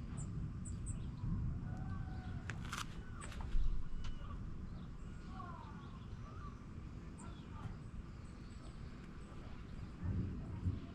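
Several birds chirping and calling over a steady low rumble outdoors. There is a single thump about three and a half seconds in.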